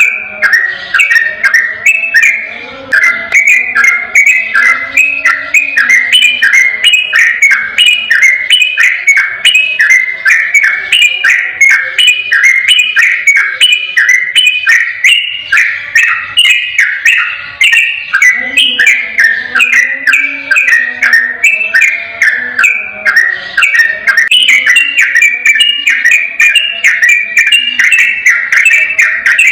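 Yellow-vented bulbul (trucukan) singing a rapid, unbroken 'ropel' song: a continuous run of short, bright chirping notes, several a second, without pause.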